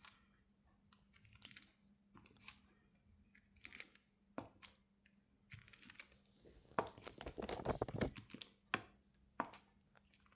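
Quiet scattered taps of a small rubber stamp being inked and pressed onto strips of tape, with a short burst of crinkling and rustling from handling the tape about seven seconds in.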